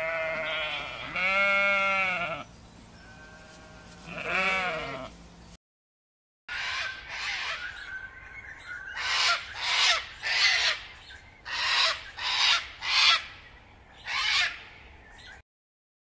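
Sheep bleating about four times, one after another. After a short gap, an African grey parrot gives a run of about ten short, harsh squawks.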